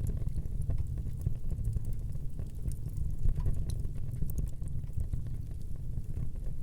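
Wood fire burning in a fireplace: frequent small sharp crackles and pops over a steady low rumble of the flames, with one louder pop about three seconds in.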